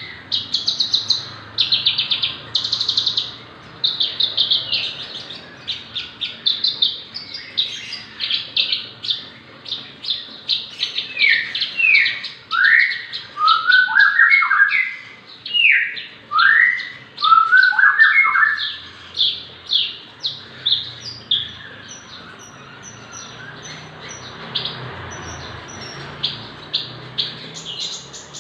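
A Javan bush lark (branjangan) sings a long, varied song made of quick, rapidly repeated high trilled phrases. Partway through comes a run of lower swooping, slurred notes, and after that the high trills return.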